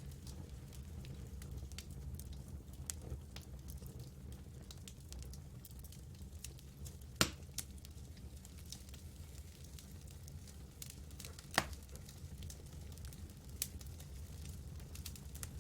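Campfire burning with scattered small crackles over a steady low rumble, and two louder pops, about seven seconds in and again some four seconds later.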